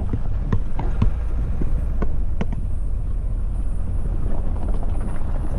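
A vehicle driving on a rough forest road: a steady low rumble with scattered knocks and rattles in the first couple of seconds.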